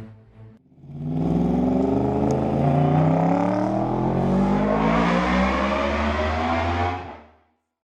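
2015 Yamaha R1's crossplane inline-four engine accelerating hard, its pitch climbing steadily for several seconds, then fading out quickly near the end.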